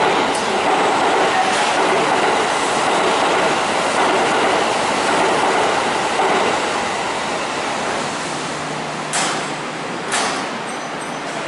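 Kintetsu Osaka Line local electric train running into the station, its rolling noise slowly easing. Near the end come two short sharp bursts of noise, about a second apart.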